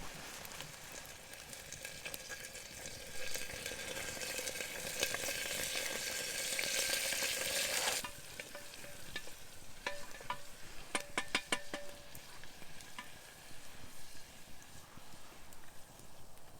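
Food sizzling in a pot over a campfire: a hiss that builds and then cuts off suddenly about halfway through. Afterwards it is quieter, with scattered sharp clicks.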